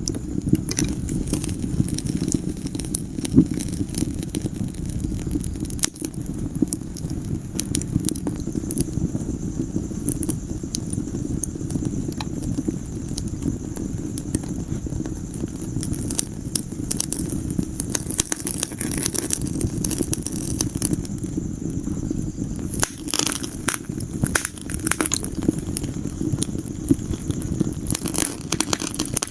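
Wood fire burning in a fireplace: a steady low rumble of flames under frequent sharp crackles and pops, which come in thicker clusters a few times.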